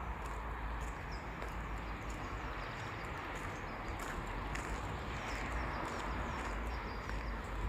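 Footsteps walking along a forest path at an even pace, over a steady low rumble, with small birds chirping faintly now and then.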